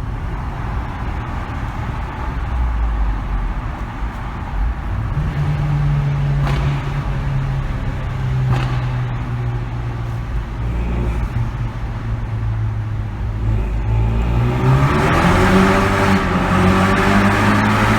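Exhaust of a Renault Mégane RS 225's turbocharged 2.0-litre four-cylinder, Stage 1 tuned with only the rear muffler fitted, echoing in a tunnel. It holds a steady drone, then about fifteen seconds in it accelerates, rising in pitch and getting louder.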